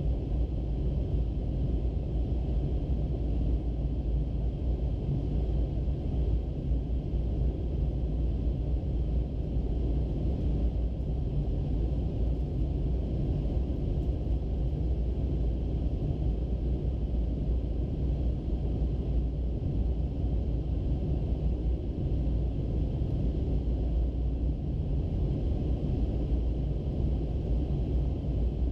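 Steady low rumble of an Airbus A321-200 airliner heard from inside, engine and airflow noise holding even throughout.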